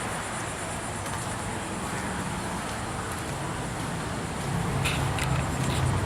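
Outdoor background noise: a steady hiss with a low hum that grows louder about four and a half seconds in, and a few faint ticks near the end.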